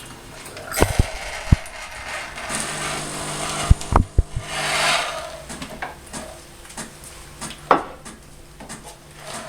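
Gaggia Titanium bean-to-cup coffee machine at work: several sharp mechanical clicks and knocks over a low hum and stretches of hiss.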